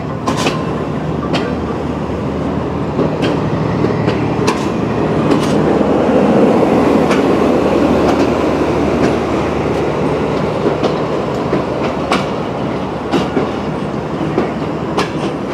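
Pakistan Railways passenger coaches of a departing express train rolling past, their wheels clicking over rail joints at irregular intervals over a steady rumble. The rumble swells to its loudest in the middle and eases off again.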